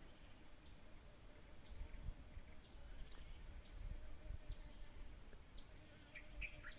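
Steady high-pitched insect drone, with a short falling note repeating about once a second. A few brief bird notes come near the end.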